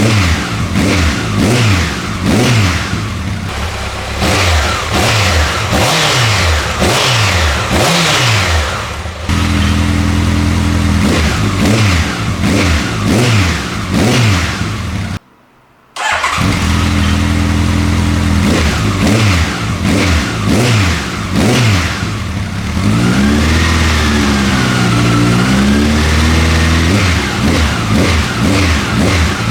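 Honda CB1100's air-cooled inline-four idling and being blipped through its slip-on exhaust, many quick revs rising and falling about once a second. There are steady idle stretches, a sudden dropout of about a second just past the middle, and one slower, longer rev a little later.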